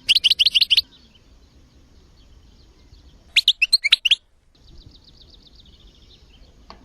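Recorded songbirds singing: a loud burst of quick, rising chirps at the start and another varied burst about three seconds in, over fainter continuous twittering of other birds.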